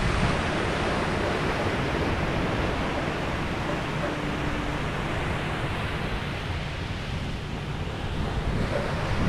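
Ocean waves washing onto a beach: a continuous roar of surf that swells at the start and builds again near the end.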